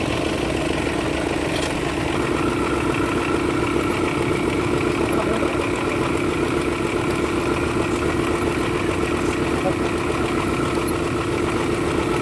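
Hino truck diesel engine idling steadily, with a faint higher whine joining in about two seconds in.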